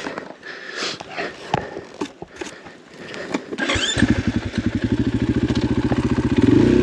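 Scattered light clicks and rustles, then about four seconds in a KTM enduro dirt bike's engine is started: a brief rising whir, and the engine catches and settles into an even, pulsing idle that picks up slightly near the end.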